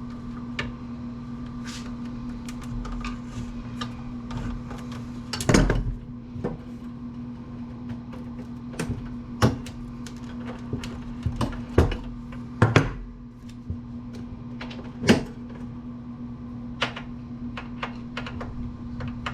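Scattered sharp clicks and knocks of metal parts being handled while an amplifier chassis is dismantled by hand, a few of them loud clunks, over a steady low hum.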